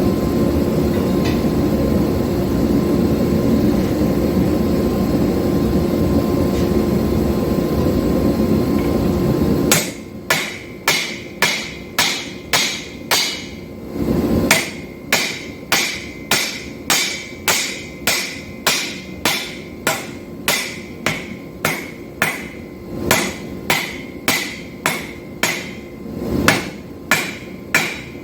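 A steady loud roar for about the first ten seconds, then a hand hammer striking hot 5160 steel bar on an anvil, about two ringing blows a second with short pauses, as the bar is drawn out.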